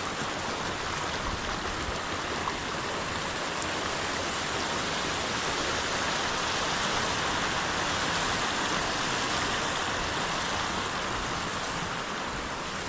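Stream water rushing in a steady, even flow, swelling slightly in the middle.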